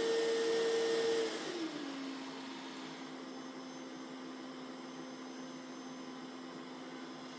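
Mova Z60 robot vacuum's suction motor running at high power with a steady whine, then about a second and a half in winding down to a lower, quieter steady hum as the suction ramps down.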